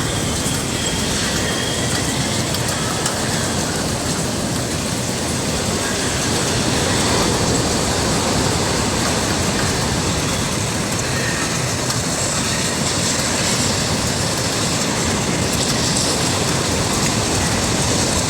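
Hurricane wind and heavy rain: a loud, steady rushing noise with no let-up.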